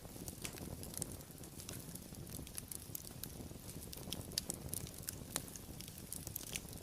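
Wood fire burning, with irregular sharp crackles and pops over a low, steady rumble; a couple of louder pops about four and a half and five and a half seconds in.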